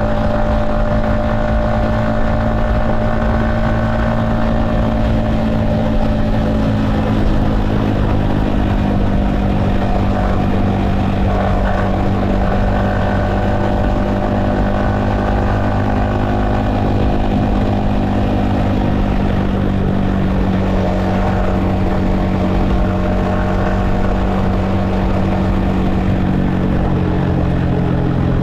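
Yamaha XSR155's 155 cc single-cylinder engine running at a steady cruise, heard from a helmet-mounted camera. The engine pitch holds steady and eases down slightly near the end.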